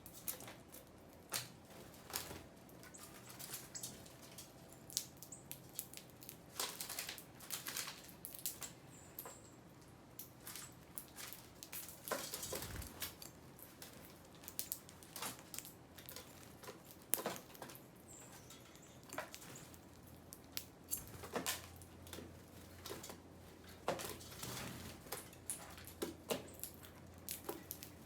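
Irregular sharp taps and clicks of small birds pecking and scratching at seed, coming in uneven clusters with short gaps between them.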